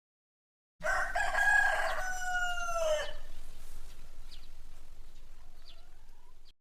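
A rooster crows once, a single call of about two seconds that drops in pitch at the end. A faint hiss with a few soft chirps follows, then the sound stops abruptly.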